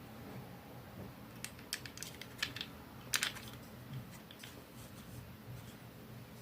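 A quick, irregular run of light clicks and taps, starting about a second and a half in and loudest about three seconds in, over a low steady hum.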